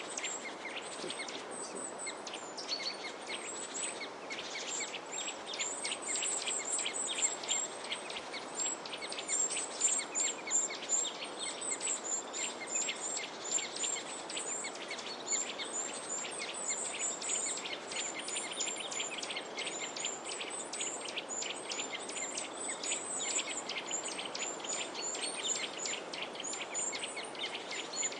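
Many small songbirds chirping together in a dense, continuous chorus of short, high chirps, over a steady background hiss.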